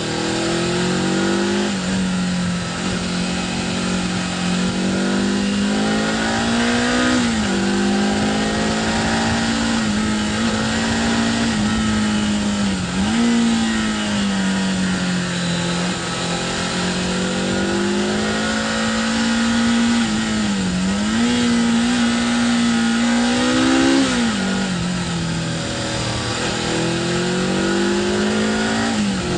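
Suzuki GS 500 parallel-twin engine heard on board while riding. The engine note climbs slowly and dips briefly about four times as the bike is ridden through a run of curves, with wind rushing past.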